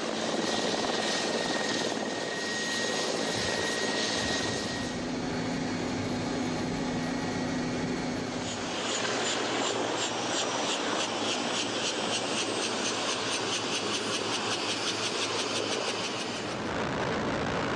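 Mi-24 helicopter in flight: a steady noise of its twin turboshaft engines and rotor, joined about halfway through by a fast, even, rhythmic beating.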